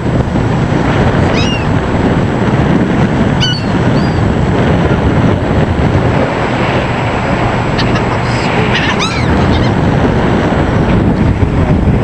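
Gulls giving a few short cries, about 1.5 and 3.5 seconds in and a quick run of calls near the end, over a loud steady rush of wind and water.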